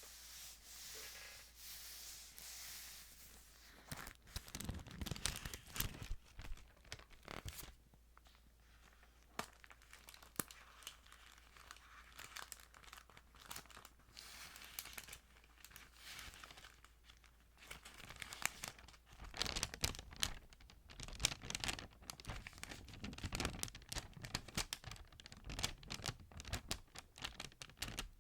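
Thin Bible pages handled and turned close to the microphone, crinkling and crackling, busy from about four seconds in, sparser through the middle and busy again from about two-thirds through.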